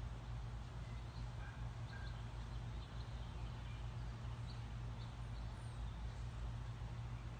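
Outdoor background: a steady low rumble with a few short, faint bird chirps scattered through it.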